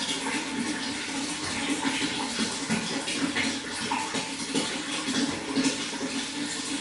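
Running water, a steady splashing and gurgling flow.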